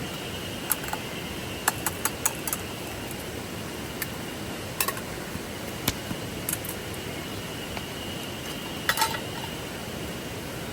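Light metallic clinks of camp cookware or utensils being handled, a dozen or so scattered short ones, over the steady rush of a flowing river.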